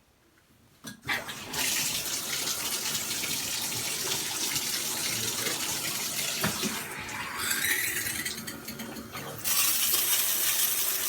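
Brass high-flow shower head spraying water after the shower is turned on with a click about a second in. The spray changes for a couple of seconds around seven seconds in, then runs louder near the end.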